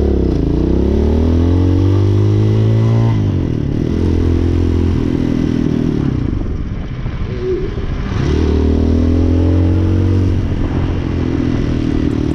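Hawk 250cc motorcycle engine under way, revving up through a gear, with a shift about three seconds in. It eases off and slows for a few seconds, then pulls away again about eight seconds in.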